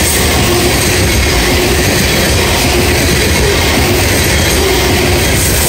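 Loaded coal hopper cars of a freight train rolling past fast at close range: steel wheels on the rails make a steady, loud rumble.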